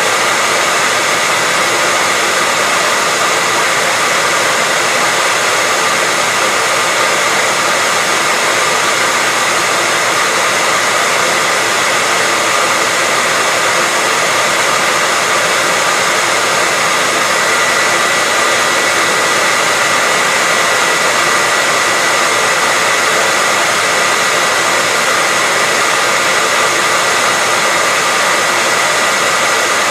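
Hair dryer blowing steadily, a constant rush of air with a faint high whine from its motor.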